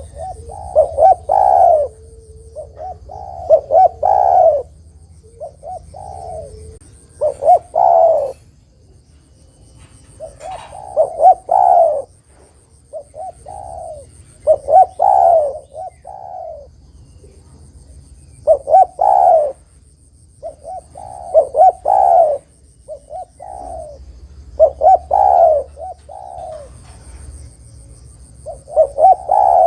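Spotted dove cooing: a repeated phrase of several quick coo notes, given about every three to four seconds.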